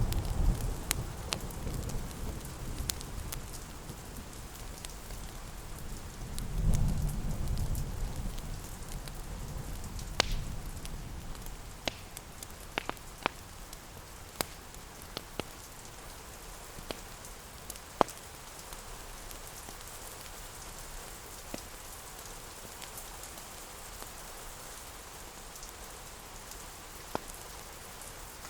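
Steady rain with scattered sharp crackles and pops from a wood fire. A low rumble swells at the start and again about seven seconds in, then fades.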